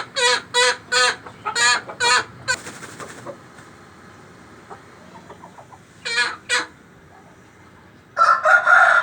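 Aseel chickens calling: a quick run of short clucking calls, about three a second, for the first two seconds, then two more calls about six seconds in, and a louder, longer call near the end.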